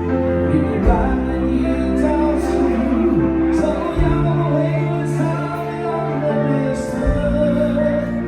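Live band playing a song, with a singer over sustained bass notes and regular drum hits.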